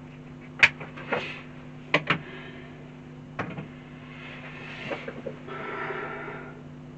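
A handful of sharp clicks and small knocks of parts and tools being handled as a nitro engine is fitted back into an RC car chassis, then a scraping rustle, over a steady low hum.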